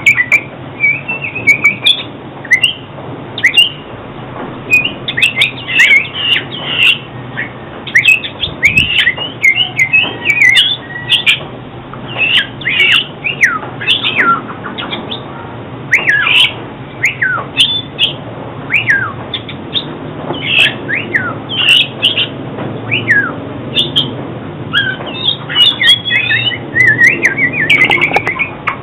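Oriental magpie-robin singing a long, varied song of clear whistled notes, many sliding steeply up or down, run together with quick warbled phrases.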